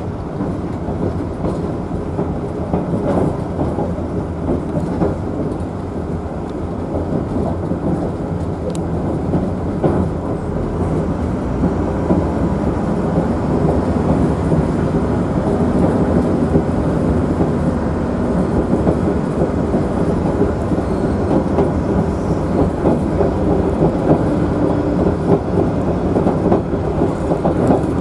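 Savannahlander's 2000 class diesel railmotor running along the line: a steady rumble of engine and wheels on rail with scattered clicks, getting a little louder after about twelve seconds.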